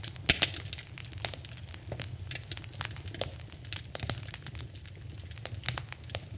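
Wood fire in a fireplace crackling: frequent sharp pops and snaps of uneven loudness over the low, steady rumble of the flames, with one loud pop a moment after the start.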